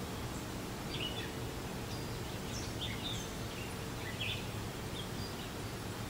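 Faint, short bird chirps, several scattered through, over a steady low rumble of background noise.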